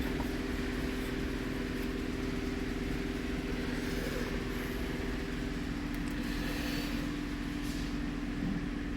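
Nissan Pathfinder V6 engine idling with a steady hum; its higher tone drops out a little past halfway.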